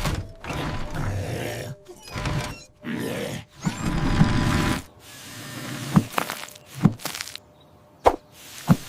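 Cartoon soundtrack of music and sound effects: a busy stretch of sound, then four short, sharp thunks in the last three seconds.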